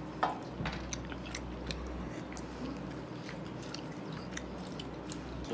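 A man chewing a mouthful of meat: a string of small, irregular mouth clicks, with a sharper bite about a quarter of a second in, over a low steady hum.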